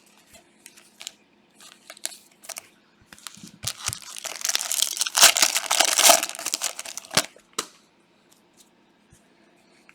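Plastic trading-card pack wrapper crinkling and tearing, loudest for about two seconds in the middle, with scattered light clicks around it and a couple of sharp snaps near the end.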